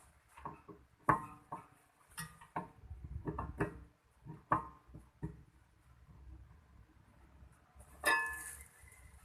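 Light metallic clinks and knocks of metal tools and parts being handled, about a dozen in an uneven run, with a louder clink near the end that rings briefly.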